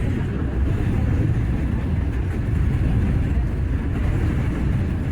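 A steady rumble of an R179 subway car in motion, heard from inside the car: wheels on the rails and the running gear, with no squeals or distinct knocks.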